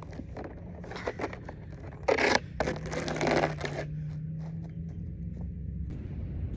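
Scraping and crunching on ice-crusted snow in two short bursts, about two and three seconds in, over a low steady hum.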